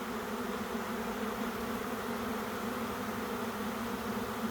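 A honey bee swarm in flight: a steady, dense buzzing hum of thousands of bees filling the air as they move into empty hive boxes.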